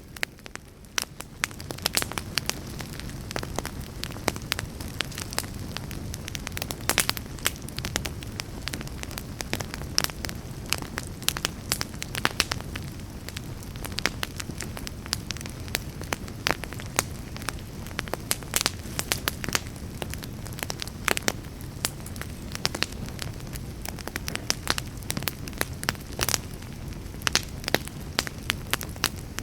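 Campfire burning, crackling with frequent irregular sharp pops and snaps over a steady low rumble of flame.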